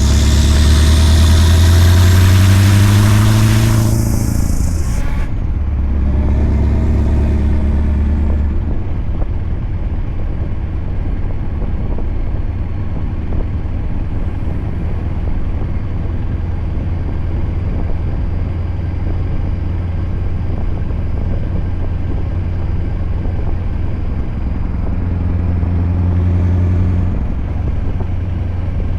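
Scania R580's 16-litre V8 diesel with a straight-piped 8-inch exhaust pulling under load. It rises in pitch over the first few seconds, again about six seconds in and near the end, and holds a steady drone in between. A loud hiss sits over it and stops about four to five seconds in.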